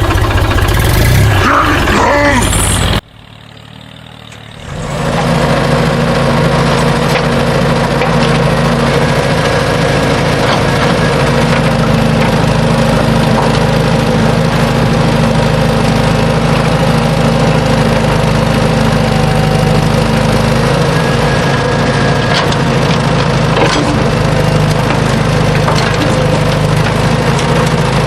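A mini tractor's motor running with a steady drone. The sound cuts off abruptly about three seconds in, then comes back about two seconds later and holds steady.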